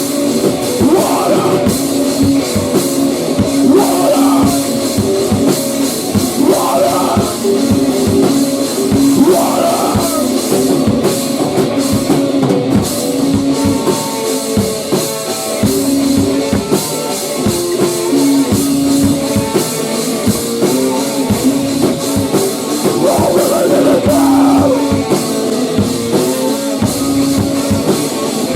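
A rock band playing a loud, steady passage: a drum kit hit continuously under guitar holding sustained notes, with a swell coming back every few seconds.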